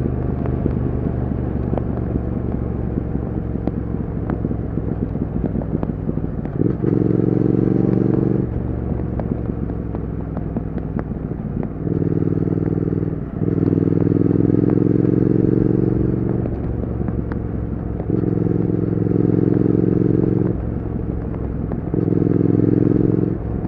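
Triumph Speed Twin 1200's parallel-twin engine and exhaust while riding. The throttle is opened about five times, each time giving a louder, fuller exhaust note for one to three seconds, between stretches of steadier, quieter running.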